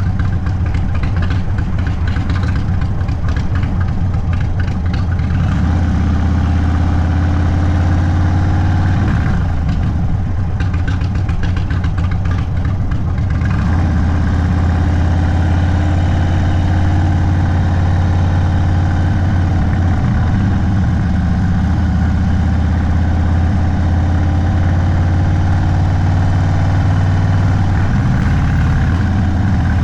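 Indian Sport Chief's V-twin engine running steadily at low revs through a Sawicki Speed aftermarket exhaust, a deep, even rumble. Some extra hissy noise rides over it for the first half, then the rumble alone carries on.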